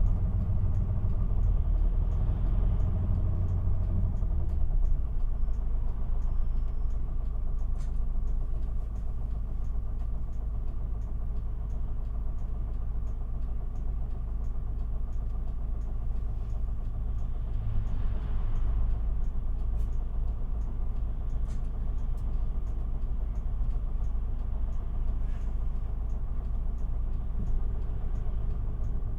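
Isuzu Erga city bus running, heard from inside the cabin: a steady low engine and road rumble, heavier for the first few seconds and then even.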